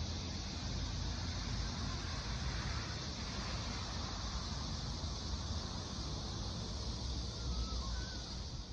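Steady hiss of falling rain with a low rumble underneath.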